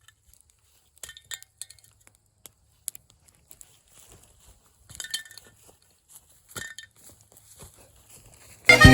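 Scattered light metallic clinks and clicks a few seconds apart, from hard objects being handled. Loud accordion music starts abruptly near the end.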